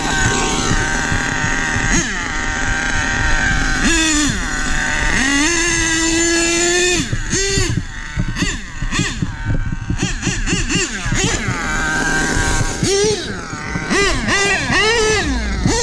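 HPI Nitro Star .25 two-stroke nitro engine of an HPI Savage 25 RC monster truck revving up and down under throttle, with quick blips and a held high-rev run about five seconds in.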